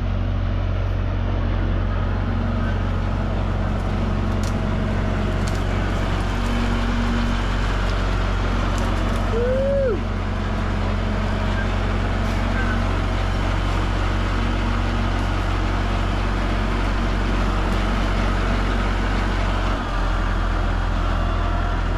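A tractor engine running steadily at a constant speed, with one short squeak that rises and falls about ten seconds in.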